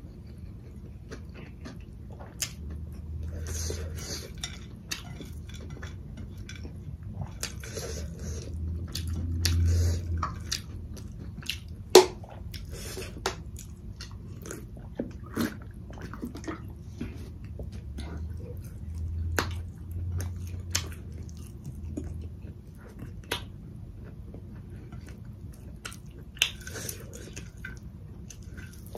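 Close-miked eating by hand: chewing and biting on rice and curry, with many short sharp mouth clicks and smacks scattered throughout.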